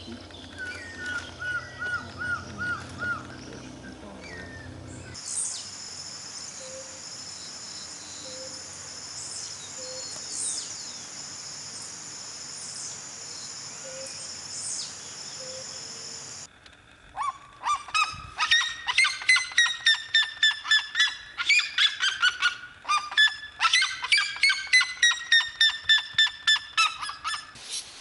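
A sequence of wild tropical bird recordings. First a short run of evenly repeated call notes, then a steady high shrill tone with a few scattered calls. From about the middle onward come loud, fast series of harsh honking calls, about three a second, in long runs broken by brief pauses.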